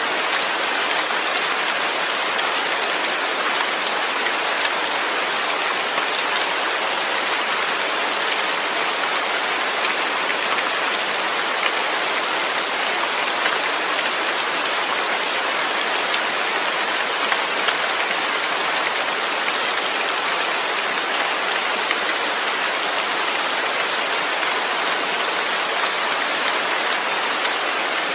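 Steady, even rain falling, with no changes or pauses.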